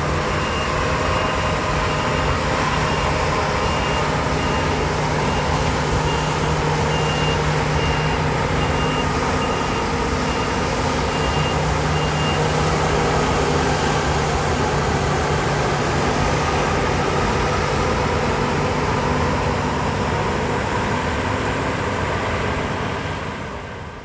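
A large diesel farm machine running steadily. Its reversing alarm beeps about once a second for roughly the first half, then stops. The engine sound fades out near the end.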